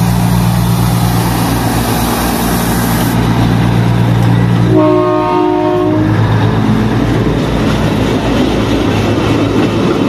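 Matheran toy train's diesel locomotive running steadily at close range. Its horn sounds once, for just over a second, near the middle.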